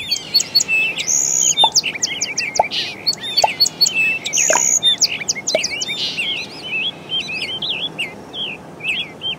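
Birds chirping and singing, many quick overlapping chirps and trills with hardly a pause.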